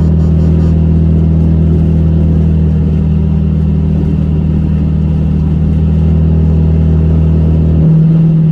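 A car engine running at a steady speed, giving a loud, even low drone. Near the end the deepest part of the drone drops away and a slightly higher hum carries on.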